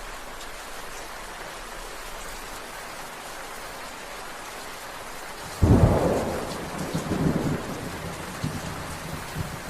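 Steady rain falling, then a sudden loud thunderclap a little over halfway through, followed by a run of lower rumbles that die away.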